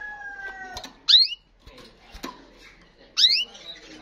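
The tail of a rooster's long crow fades out in the first second. It is followed by two short, loud bird chirps about two seconds apart, each sweeping sharply down in pitch.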